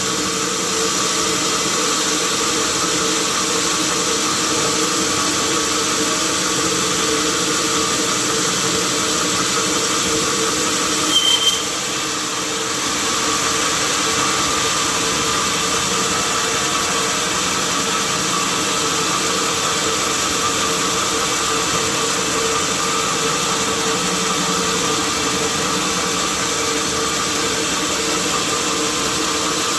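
Sawmill machinery running steadily with a constant hum, and a brief high squeal about eleven seconds in.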